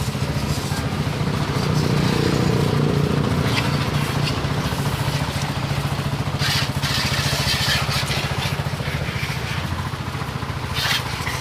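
Four-stroke racing motorcycle engine idling steadily with a fast, even firing pulse, swelling slightly a couple of seconds in. Short bursts of hiss come in about six seconds in and again near the end.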